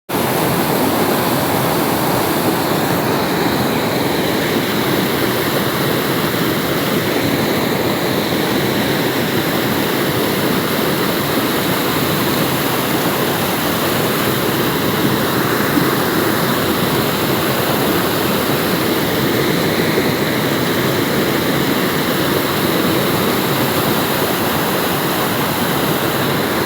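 Steady, even rush of water, a continuous roar with no distinct drops or splashes standing out.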